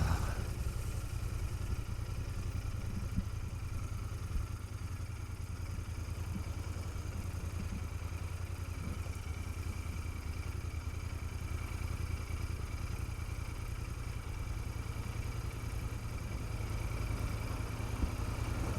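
Royal Enfield Continental GT650's 648 cc parallel-twin engine idling steadily, a low, even rumble.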